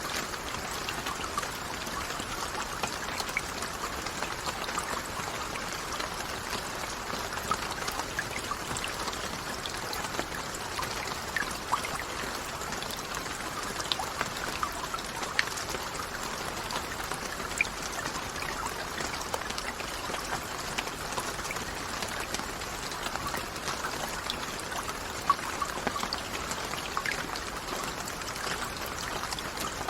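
Steady rain falling: an even hiss with many separate drops ticking sharply here and there.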